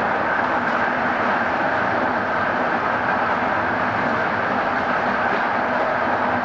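Passenger train running at speed, heard on board the carriage: a steady, even rush of wheel and rail noise.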